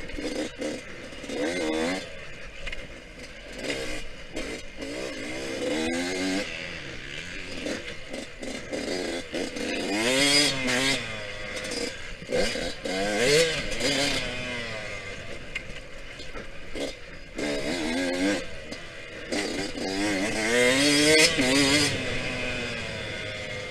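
Yamaha YZ125X's 125 cc two-stroke single-cylinder engine being ridden hard on a dirt track. It revs up in repeated climbing whines through the gears and drops back off the throttle, about five times.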